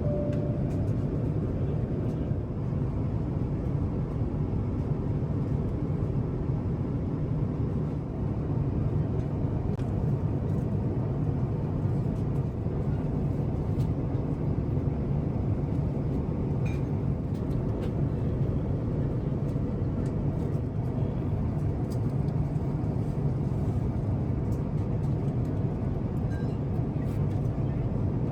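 Steady cabin noise of an Airbus A350-1000 in cruise: an even, low rumble of engines and airflow, with a few faint clicks.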